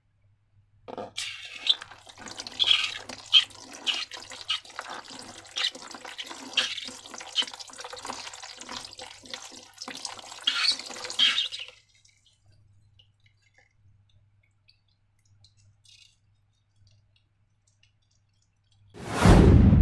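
Slime being squished and worked by hand: dense wet, sticky crackling and clicking for about ten seconds, then it stops. Near the end comes a loud, deep, booming sound lasting about a second.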